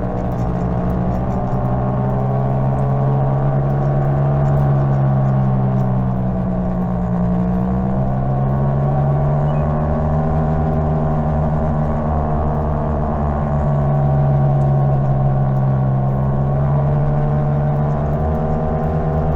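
Greenworks 60V electric mini bike's motor and drive whining as it rides, the pitch falling and rising again twice as the speed changes, over a low rumble.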